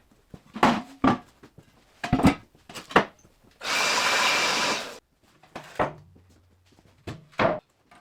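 Several sharp clanks of heavy steel pieces being handled, and near the middle a short burst of about a second and a half from a power tool running.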